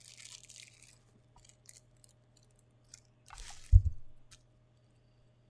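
Hands handling a boxed figure and its plastic packaging: a short crinkling rustle, a few small clicks, then another rustle ending in a dull thump about two-thirds of the way through, as something is set down or knocked.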